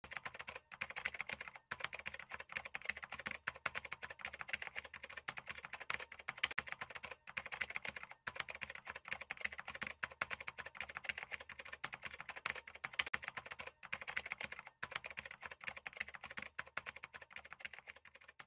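Computer keyboard typing: a fast, continuous run of key clicks with a few short pauses.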